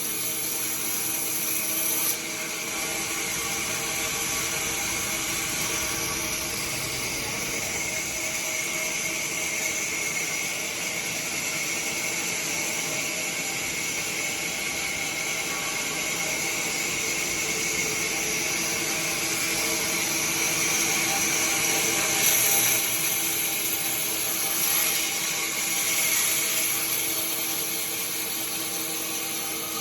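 Sawmill machinery running steadily, a saw with a high whine and hiss. The sound shifts suddenly about two seconds in and swells a few times near the end, as the cut changes.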